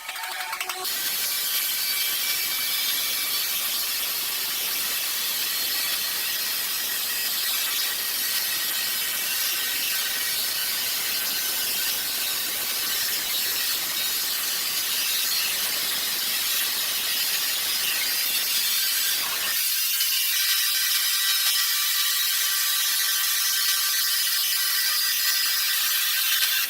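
Sawmill machinery running steadily: a continuous high-pitched whine of several tones over a bright hiss. The deeper part of the sound drops away abruptly about twenty seconds in.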